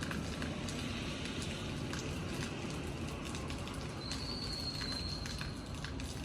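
Rain falling, with drops clicking and dripping over a steady hiss. A bird gives one long, flat, high whistle about four seconds in.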